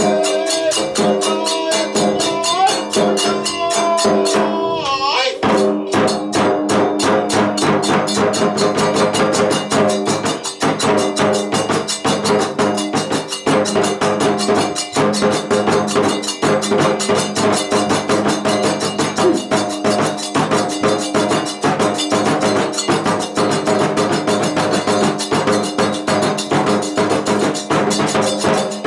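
Kagura accompaniment music: a flute melody, gliding between notes in the first few seconds, over fast, steady drum beats and clashing small hand cymbals.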